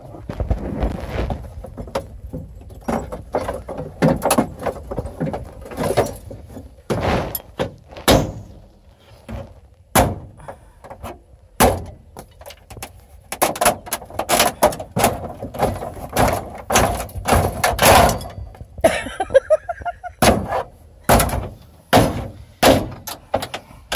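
Plastic parts of a GMC truck's dashboard being pried and broken out by hand: a long run of irregular knocks, snaps and cracks, with a short squealing scrape about three quarters of the way through.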